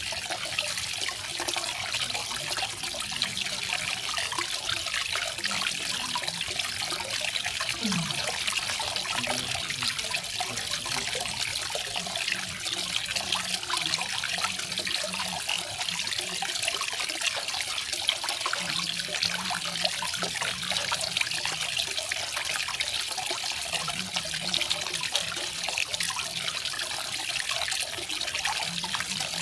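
Garden waterfall: water falling and splashing in a steady, unbroken rush with no change over time.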